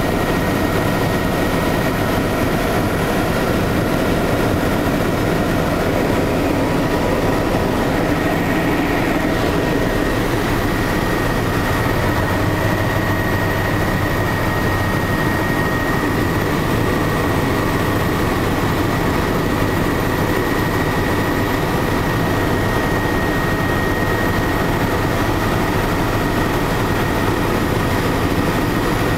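Helicopter in flight, heard from on board: a steady engine and rotor drone with a thin, constant high whine over it.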